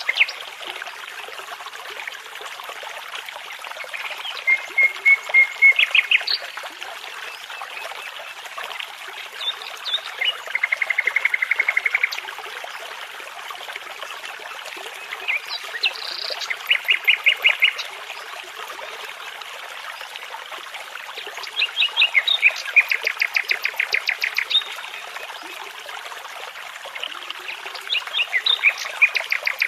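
Nightingale singing in separate phrases of rapidly repeated notes and fast trills, about five phrases with pauses of a few seconds between them. A babbling brook runs steadily beneath.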